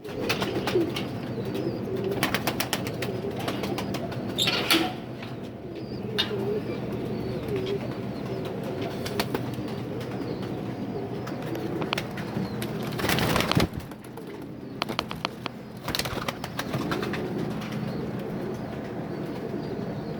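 Turkish domestic pigeons cooing over and over in low, wavering calls, with scattered sharp clicks and a louder rushing burst about 13 seconds in, over a steady low hum.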